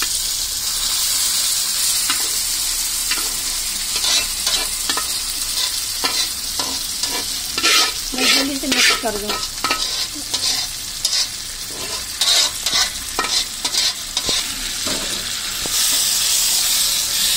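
Cooked dal poured into hot oil with golden-fried onions in a frying pan, sizzling steadily. Repeated scrapes and knocks of a metal spatula against the pot and pan come through the middle as the lentils are scraped out and stirred, and the sizzle swells again near the end.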